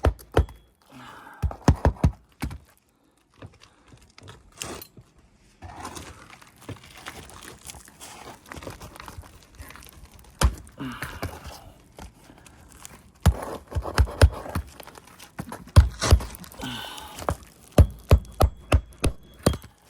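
Clusters of sharp hammer strikes, several in quick succession each time, with the rustle and scrape of brittle asphalt shingles being handled between them.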